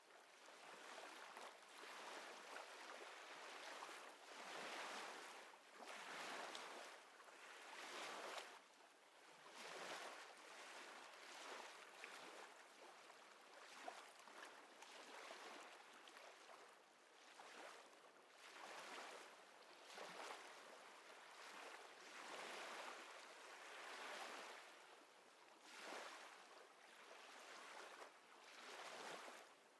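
Faint small waves washing against the shore, a soft rush that swells and fades about every two seconds.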